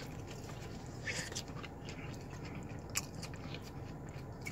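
A person chewing a mouthful of chicken sandwich, faint, with a few soft mouth clicks about one and three seconds in, over a steady low hum in a car cabin.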